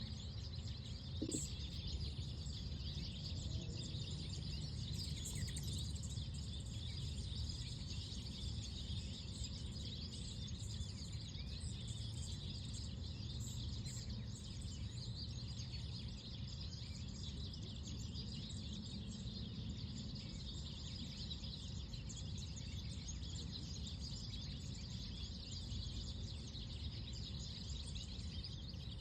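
Outdoor park ambience: a steady low background rumble with small birds chirping faintly throughout.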